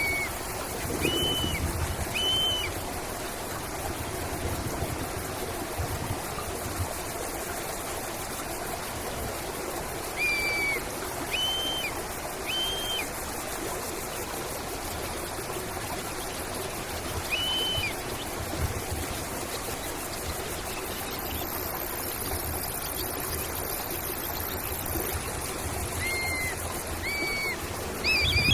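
A stream trickling steadily, with a bird giving short, clear whistled notes every few seconds, mostly in twos and threes.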